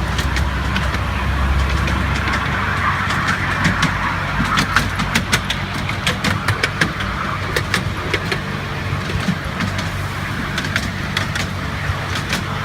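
Miniature railway train running along the track, with a steady low mechanical hum and a scatter of sharp clicks and ticks from about three seconds in.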